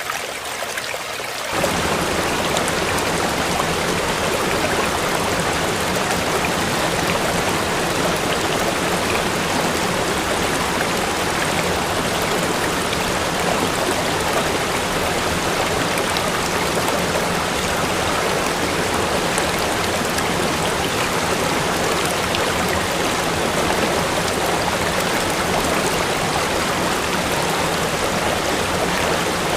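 Water rushing steadily over a waterfall. It cuts in suddenly, louder and fuller, about a second and a half in, after a thinner trickle.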